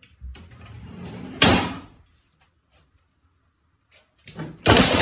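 A sudden bang, like a door or cupboard shutting, about a second and a half in. A loud, noisy rustling stretch starts near the end.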